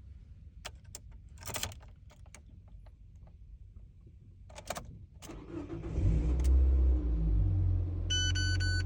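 Keys clicking and jangling, then the Nissan NV200 Vanette's engine cranks and starts about five seconds in, revs briefly and settles into a steady idle. A short electronic chime sounds near the end.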